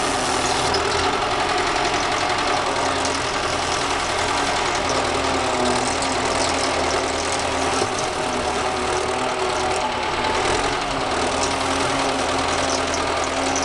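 Engine of repair-site machinery running steadily at a constant speed, with light clatter on top.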